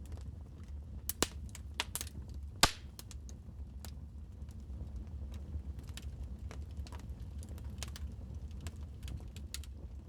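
Wood fire crackling in a fireplace: scattered sharp pops and clicks over a low, steady rumble, with three louder pops in the first three seconds.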